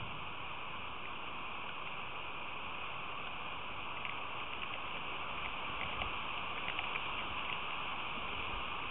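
Steady rain falling, a continuous even hiss, with a few faint ticks of drops hitting something between about four and eight seconds in.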